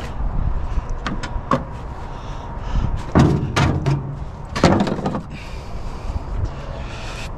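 Knocks and bangs from scrap being handled. A few light knocks come first, then two heavier bangs in the middle, about a second and a half apart.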